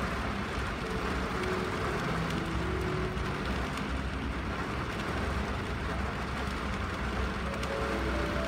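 Rain on a car windshield heard from inside the car: a steady hiss over a low rumble, with soft melody notes drifting on top.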